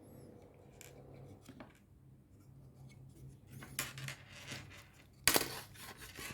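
Small parts being handled by hand: scattered light clicks and taps, with one sharper clatter a little over five seconds in, over a faint steady hum.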